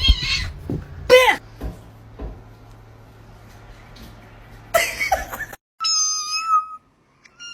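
A cat meowing: a short call about a second in, and a longer, higher, steady call near the end.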